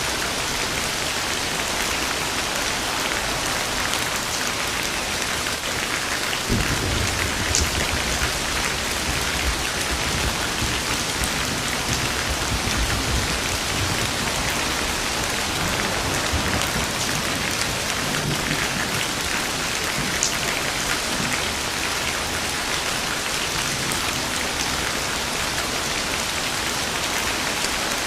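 Steady rain falling, with a low rumble of thunder rolling in about six seconds in and fading away over the next ten seconds or so.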